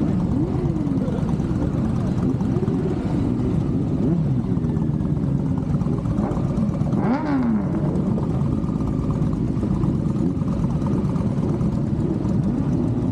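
Many motorcycle engines running together, their pitches rising and falling and overlapping as riders blip their throttles. One sharper rising rev stands out about seven seconds in.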